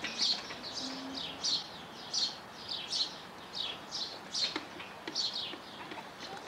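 A bird chirping over and over: short, high chirps that drop in pitch, about one to two a second.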